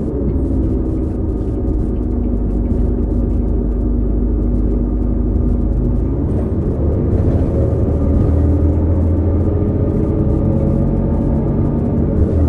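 New Flyer XD40 transit bus running with its Cummins L9 diesel's low rumble and a set of steady whining tones from the Allison B3400xFE transmission, whose bearings make an odd sound. The tones shift to new pitches about six seconds in.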